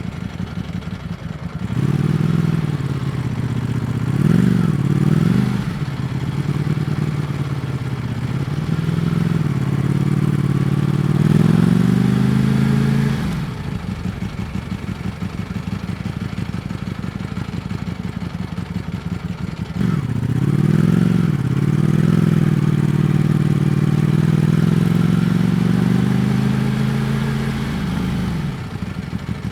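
Ducati Panigale V4 S's V4 engine running low and steady, then accelerating twice, the note climbing and dropping back with each gear change. Between the two pulls it settles back to a low, even running note.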